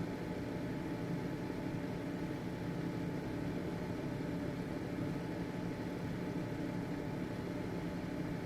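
Household ventilation fan running steadily, a constant low hum and whir with a few faint steady tones.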